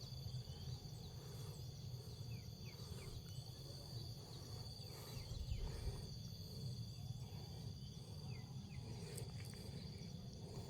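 Steady high-pitched insect trill, like crickets, over a low rumble of outdoor background noise, with a few faint short chirps.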